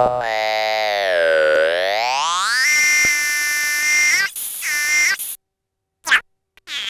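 Synthesis Technology E950 circuit-bent VCO, a Eurorack synthesizer oscillator, playing a buzzy tone rich in overtones. The pitch swoops down and back up, then settles into a few held notes broken by short gaps. It falls silent near the end, apart from one short blip.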